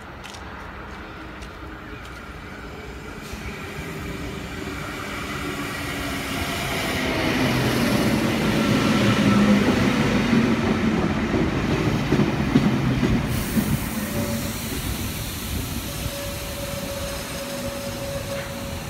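Double-deck electric passenger train running in along the platform. Its rumble grows louder to a peak about halfway through, with a few sharp clicks from the wheels on the rails, then eases off under a steady whine.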